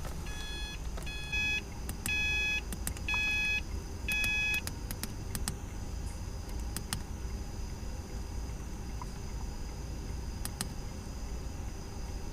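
Electronic beeps, five short chimes about a second apart, while a tune is loaded onto a Subaru STi through a Cobb Accessport; a few faint clicks follow.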